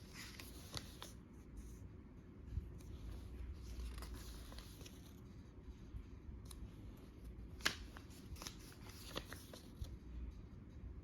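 Pages of a filled paper journal being turned and handled: soft paper rustling with scattered light clicks and taps, and one sharper click about two-thirds of the way through.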